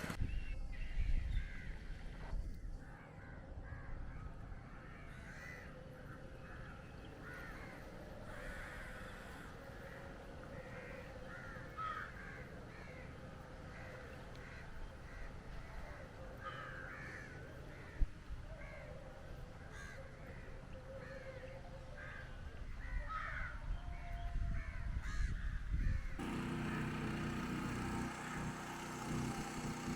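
Crows cawing again and again, several calls overlapping. About 26 seconds in the sound changes suddenly to a steady engine hum.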